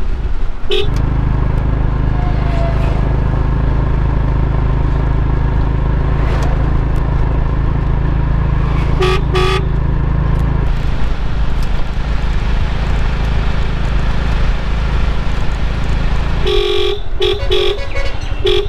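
Engine and road noise from inside a moving auto-rickshaw. A horn gives short toots: once right at the start, twice about halfway through, and several quick ones near the end.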